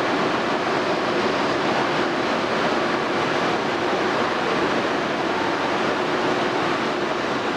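Steady, even rushing noise with a faint low hum, from an E2-series Shinkansen train at the station platform.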